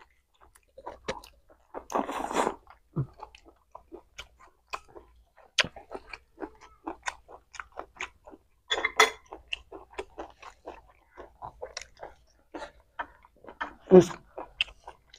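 Chewing and biting of chicken meat: a run of short, irregular wet mouth clicks and smacks, with a louder burst about two seconds in, another about nine seconds in, and a loud short sound near the end.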